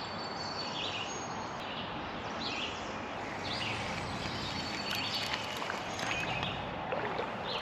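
Birds chirping repeatedly over the steady rush of a shallow creek's running water.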